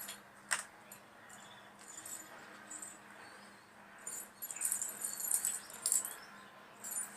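Fine copper coil wire being twisted onto a lead wire by hand: scratchy metallic rustling and small clicks, busiest in the second half.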